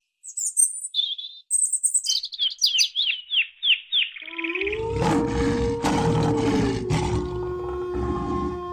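A bird chirping: a few high whistles, then a quick run of falling chirps, about three a second. About four seconds in, it gives way to a held low musical drone with rushing swells.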